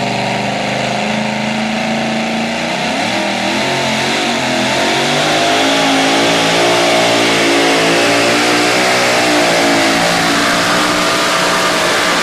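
2wd pulling truck's engine running hard at high revs, its pitch wavering up and down as it pulls, getting louder about five seconds in.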